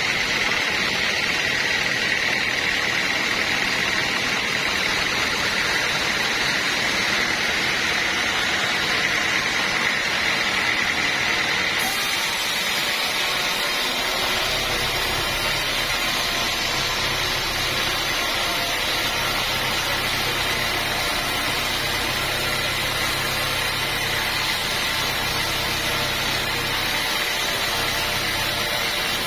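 Sawmill machinery running steadily, a saw cutting a teak log with a high whine over the noise. About twelve seconds in the sound changes abruptly and a low machine hum joins it.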